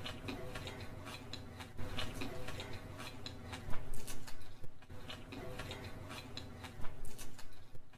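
Close-miked chewing and wet mouth smacks of someone eating fried rice and saucy Manchurian. Clicky mouth sounds come in clusters, loudest about two, four and seven seconds in, over a steady low hum.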